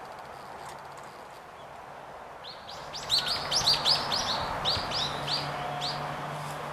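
A bird singing a quick run of short, high, repeated notes, about three or four a second, starting about two and a half seconds in and stopping near the end, over a faint steady low hum.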